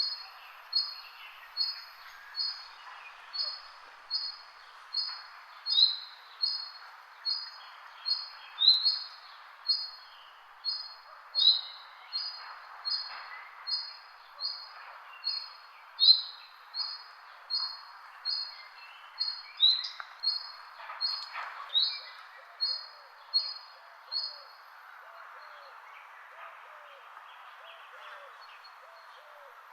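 Birds calling. One bird repeats a single high, clear note at an even pace, about every three-quarters of a second, over fainter chirps from other birds, and stops about 25 seconds in. Near the end a softer series of short, low, falling notes repeats.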